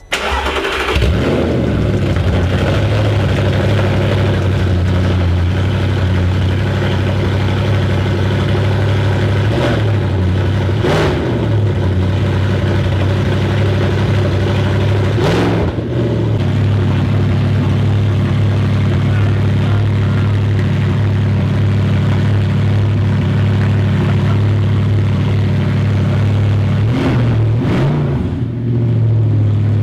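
Audi R8 engine starting with its rear silencer (back box) removed, catching at once and running at a steady idle through the open exhaust, blipped with a few short revs.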